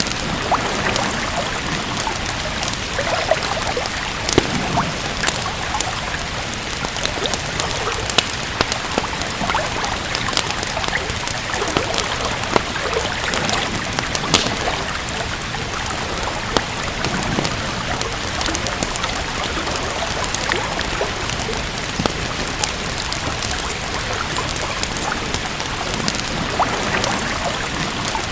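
Steady rain with a wood fire crackling: an even hiss of rainfall, dotted with frequent sharp crackles and pops.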